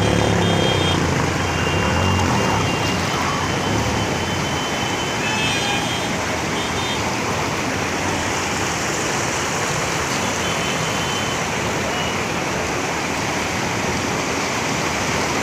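Steady rush of a waterfall's water in heavy rain. A low droning hum fades out over the first few seconds.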